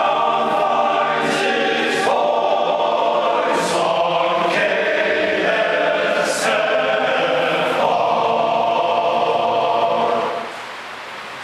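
Men's chorus singing sustained chords together, with crisp sibilant consonants; the singing drops away about ten seconds in.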